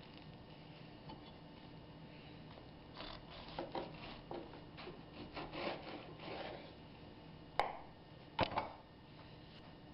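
A table knife scraping and sawing across crisp toasted bread in a run of rasping strokes, then a few sharp knocks of the knife or sandwich on a plate or board.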